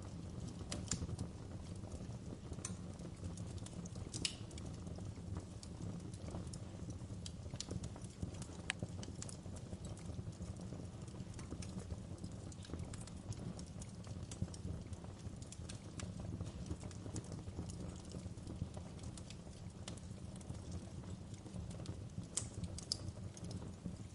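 Wood fire crackling: irregular sharp snaps and pops scattered over a steady low rumble of burning.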